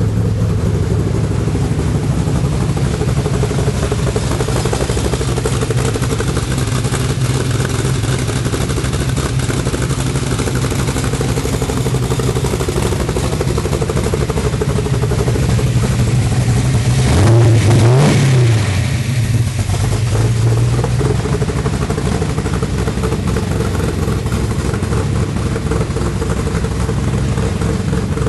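1974 De Tomaso Pantera's Ford 351 Cleveland V8, on Holley Commander 950 fuel injection, idling steadily just after a cold start. A little past the middle it is revved once, quickly up and straight back down to idle.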